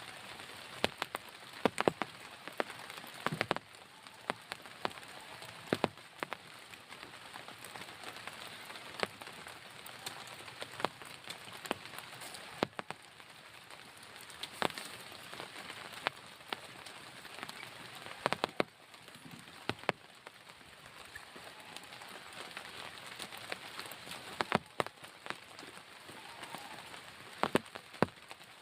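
Steady rain hiss with irregular loud, sharp drop hits, a few every second or two, landing close by.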